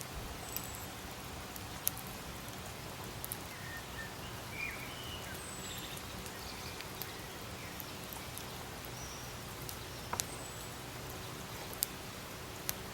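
Campfire burning: a steady hiss with the sharp crackles and pops of burning wood, several louder snaps scattered through.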